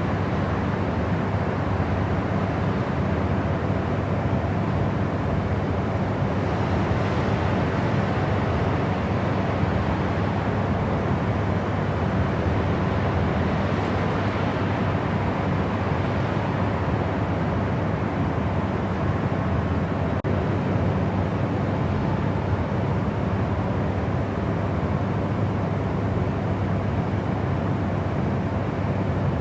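Continuous white-noise sleep sound: an even, unbroken hiss weighted toward the low end, with a deep rushing quality and no changes.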